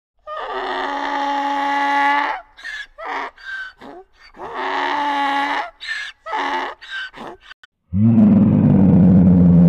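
A donkey braying: two long hee-haw calls, each followed by a run of short gasping notes. About 8 seconds in, a lion starts a deep, loud roar that is still going at the end.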